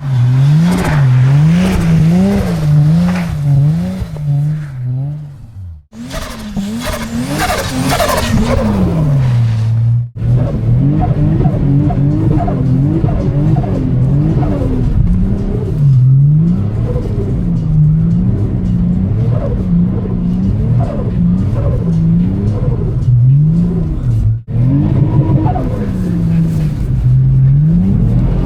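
Turbocharged Lexus IS 1G straight-six revving up and down over and over, about once a second, as the throttle is worked through a drift on snow, with tyre skid noise underneath. The sound breaks off abruptly three times where clips are joined.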